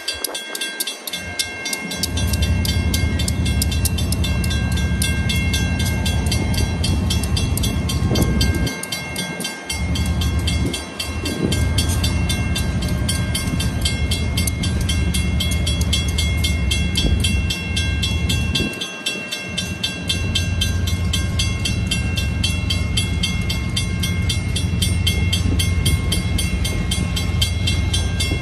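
Passenger cars of an excursion train rolling through a grade crossing with a steady low rumble that dips briefly a few times, while the crossing bell rings on without a break.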